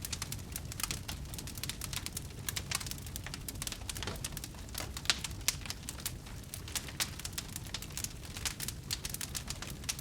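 Wood fire burning, crackling with many sharp irregular pops and snaps over a low steady rumble.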